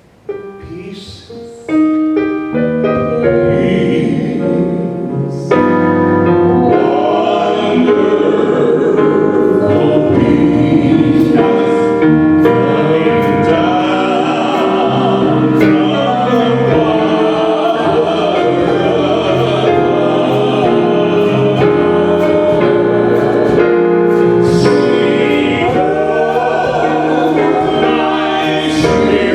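Gospel hymn sung by a choir with piano accompaniment. The piano starts alone with a few held chords, and the fuller choir sound comes in about five seconds in.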